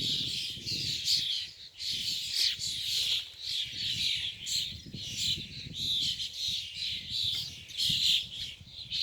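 A group of birds calling constantly, with many short chirping and squawking calls overlapping. The onlooker takes it for courtship calling between pairs.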